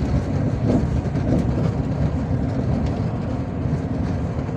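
Cabin noise of a MAZ-257 coach under way: a steady low rumble of engine and tyres on the road.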